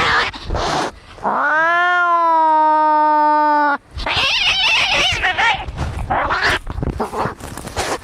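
Cats fighting: harsh yowls, then one long, level caterwaul held for about two and a half seconds that cuts off abruptly, followed by more harsh, noisy screeching.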